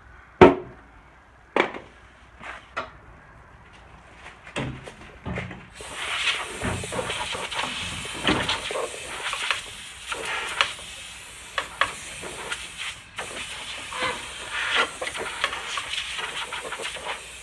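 A few knocks and clicks of parts being handled, then about six seconds in a steady, pressurised hiss begins and runs almost to the end, with crackling through it and a brief break about thirteen seconds in.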